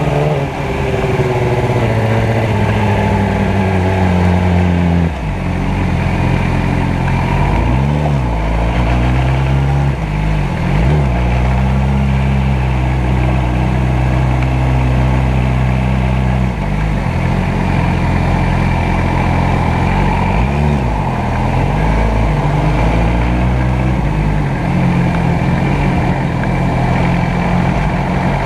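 Motorcycle engine running steadily at low revs, its pitch briefly dipping and rising again a few times as the throttle is eased and reopened.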